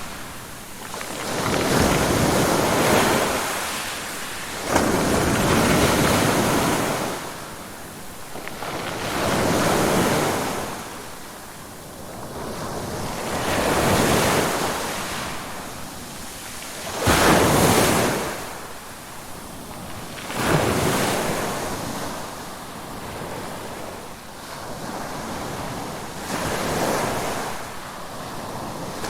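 Ocean waves breaking and washing in, one surge of surf every three to four seconds, each swelling and then fading. A few of the waves break with a sudden crash.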